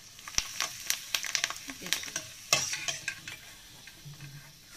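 Potato chips sizzling as they fry in hot oil in a steel kadai. A steel spoon clinks and scrapes against the pan as they are stirred and lifted out, with the clinks thickest in the first three seconds and quieter near the end.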